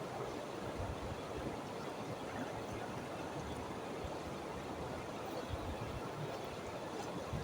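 Stream water rushing steadily, with irregular low thumps underneath.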